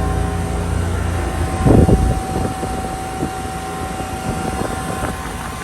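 Outdoor air-conditioner condensing unit running in cool mode: a steady hum from its compressor and condenser fan, with a steady whine over it. A brief loud rumble comes about two seconds in.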